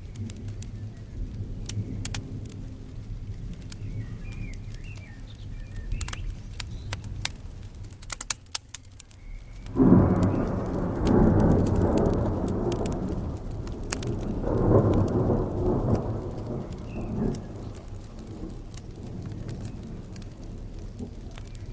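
Thunder breaks suddenly about ten seconds in and rumbles, swelling again a few seconds later before fading, over steady rain. Sharp crackles of a wood fire in a fireplace pop throughout.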